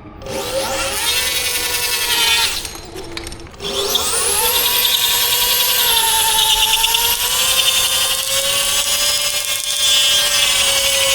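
Electric dirt bike doing a burnout: the motor whines and the rear tyre spins and squeals against the ground. There is a short bout with a rising pitch, a break of about a second, then a long steady bout that runs on.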